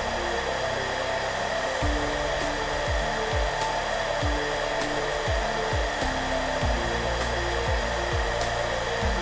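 Hairdryer blowing with a steady rushing hiss, with soft background music underneath: low sustained notes and a soft low beat that comes in about two seconds in.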